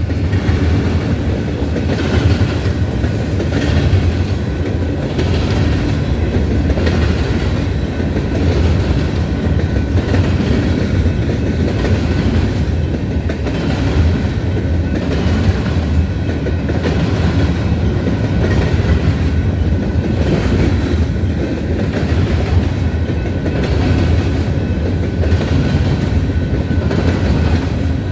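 Freight train of grain cars rolling past close by: a steady, loud rumble of wheels on rail with a rhythmic clickety-clack.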